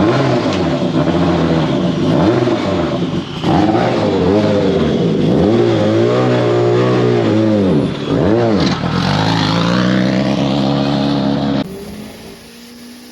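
A 400 hp open-wheel race car's engine at race speed, loud and revving up and down repeatedly through gear changes and braking. The engine sound cuts off suddenly near the end, leaving a much quieter background.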